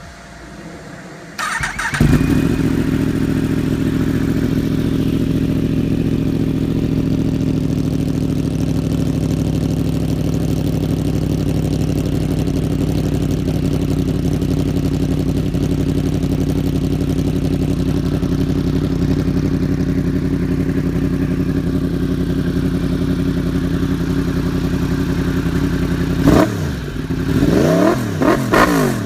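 2015 Yamaha YZF-R1's crossplane inline-four, breathing through a Graves full titanium exhaust, is cranked and fires up about two seconds in, then idles steadily. Near the end it is blipped in several quick revs.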